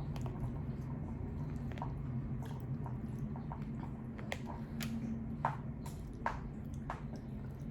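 Close-miked chewing of sushi: soft, wet mouth clicks and smacks, a few sharper ones in the middle, over a steady low hum.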